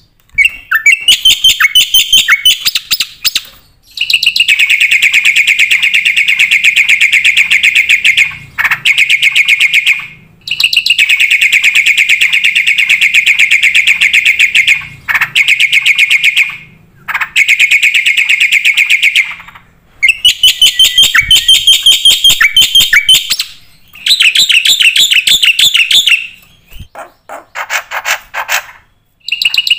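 Black-winged myna (jalak putih) singing in full, varied song: long runs of very rapid, harsh chattering notes, each several seconds long, broken by short pauses.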